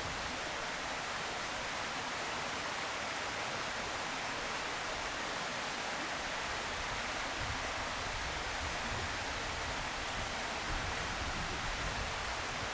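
Steady, even hiss of outdoor background noise, with uneven low rumbling in the second half.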